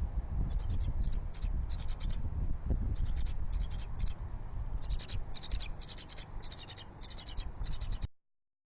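Wind buffeting the nest-cam microphone in a steady low rumble, with a run of short, high-pitched trilled calls repeating every half second or so. The sound cuts off abruptly about a second before the end.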